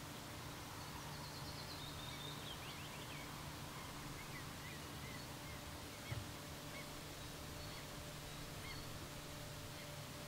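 Quiet outdoor ambience with a small bird singing in the background: a quick run of high chirps falling in pitch, then scattered chirps. There is one soft low bump about six seconds in.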